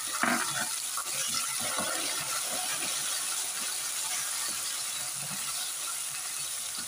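Green chillies and curry leaves frying in hot oil in a nonstick wok: a steady sizzle with the scrape and clatter of a wooden spatula stirring them.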